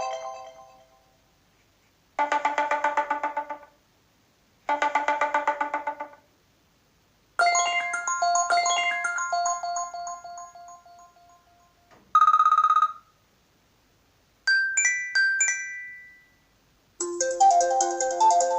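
A string of iPhone ringtones and alert tones played one after another, with short silences between them: a buzzy pulsing tone heard twice, a chime of several notes that rings out, a brief buzz, a few quick pings, and near the end a new, fuller ringtone melody begins.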